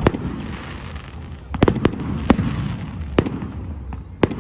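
Fireworks display: sharp bangs of exploding firework shells, irregularly spaced, with a quick cluster of several about one and a half to two and a half seconds in, another a second later and a close double bang near the end.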